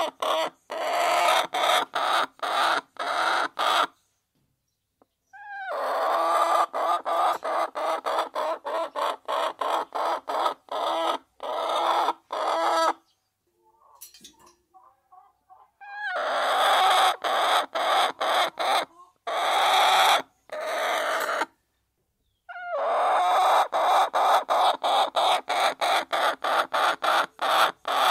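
A flock of hens clucking and calling while they feed. The sound comes in stretches of several seconds, each cut off suddenly by a short silence.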